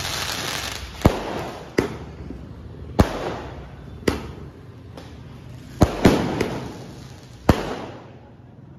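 Vivaha Utsav 60-shot aerial fireworks cake firing: about seven sharp bangs of shells bursting overhead, unevenly spaced at roughly one a second. Crackle and hiss run between the bangs and thin out near the end.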